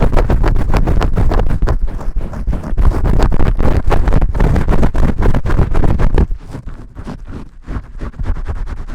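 Vigorous close-up ASMR shampoo scrubbing: rapid, rough scratching strokes of fingers working lather against the microphone, with heavy rumble. About six seconds in it suddenly drops to softer, quieter rubbing.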